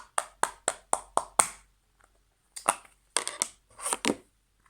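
Slime being squeezed and pulled by hand, giving sharp wet clicks and pops: a quick run of about four a second at first, then a few longer squelching clusters after a short pause.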